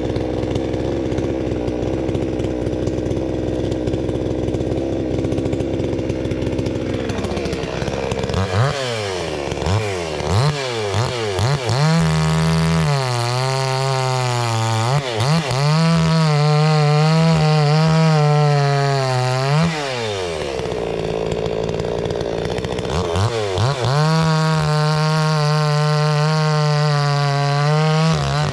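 Two-stroke gas chainsaw running at low speed for several seconds, then blipped up and down a few times and held at high revs, with the pitch wobbling. It drops back to low speed about twenty seconds in and is revved high again near the end.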